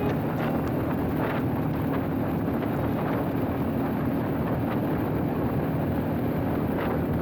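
Motorcycle engine running at a steady speed, with wind noise on the microphone.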